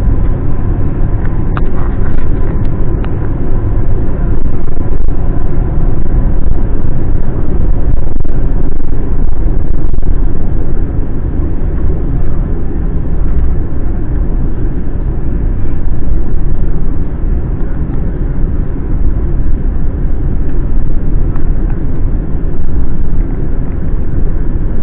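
Airbus A350 passenger-cabin noise: a loud, steady low rumble of the engines and rushing air.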